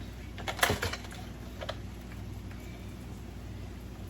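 A chainsaw's pull-start cord yanked once, giving a short clatter of clicks about half a second in. The engine does not fire, a failed start attempt.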